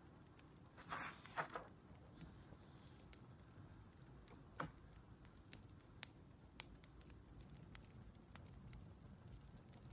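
Faint wood fire crackling, with sharp pops scattered irregularly over a soft low hiss and a brief cluster of louder crackles about a second in.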